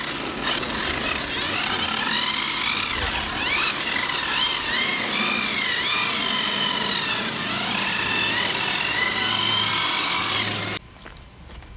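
Electric 1/8-scale RC drift cars' brushless motors and drivetrain whining, the pitch rising and falling as the throttle changes, over a steady hiss. The sound cuts off suddenly near the end.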